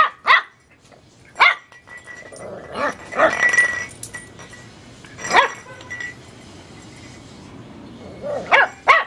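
Teacup chihuahua puppy barking: short, high-pitched yaps at irregular intervals, with a quick pair near the end.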